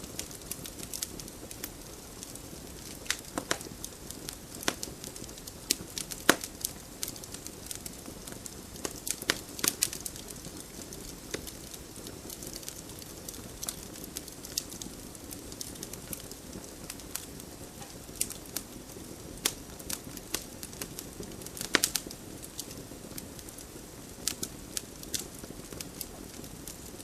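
Wood fire burning in a stone fireplace, with irregular crackles and sharp pops from the logs over a steady low rush of flame. A few pops stand out louder, one about six seconds in and a cluster a little past twenty seconds.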